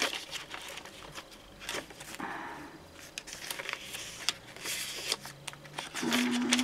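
Paper rustling and crinkling with small clicks and taps as the card pages and tags of a handmade journal are turned and handled.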